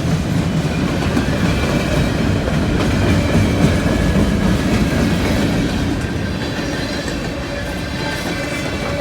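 CSX freight train rolling past close by: a steady loud rumble and clatter of steel wheels on the rail, easing off slightly after about six seconds.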